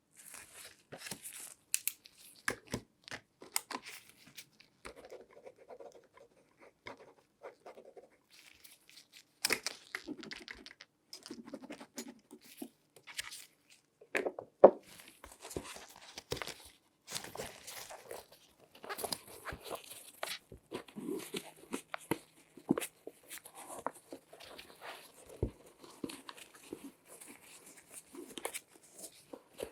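Latex-gloved hands handling a shoe and small props: a dense, irregular run of crinkling, rustling, scratching and tapping noises. A sharper tap stands out about halfway through.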